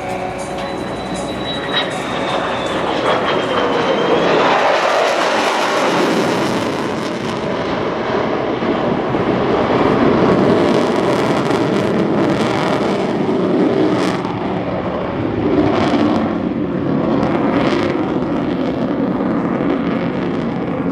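Fighter jet flying a low display pass. Near the start its whine drops in pitch as it goes by, then a loud jet roar rises and falls in waves as it manoeuvres.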